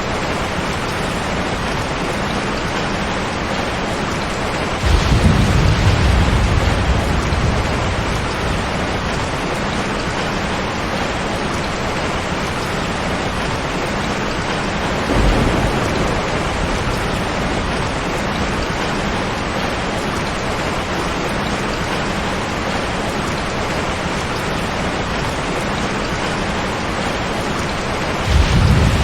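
Steady rain, with low rumbles of thunder rolling in about five seconds in, again briefly around fifteen seconds, and once more near the end.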